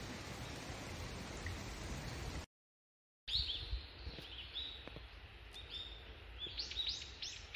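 A steady, even rushing noise that cuts off abruptly about two and a half seconds in. After a brief silence, wild songbirds chirp with short, arched calls, and the calls come in a quick run near the end.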